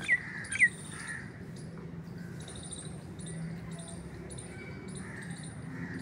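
A bird gives two sharp, downward-sliding calls about half a second apart in the first second. A steady background of high, fast-repeated chirping carries on throughout.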